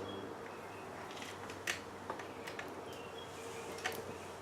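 Light handling noises while threading an industrial sewing machine: a few small sharp clicks, two of them louder about 1.7 and 3.9 seconds in, over a faint steady hum.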